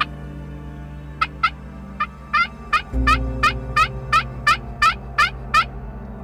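Turkey calling: a run of about a dozen quick, falling notes, starting about a second in and coming faster toward the end. Steady background music plays under it.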